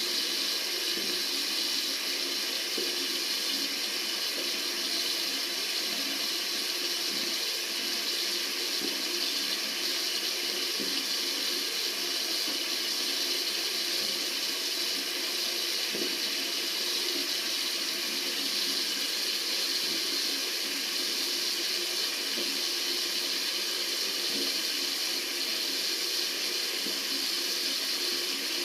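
Tap water running steadily into a sink, a continuous even splashing rush.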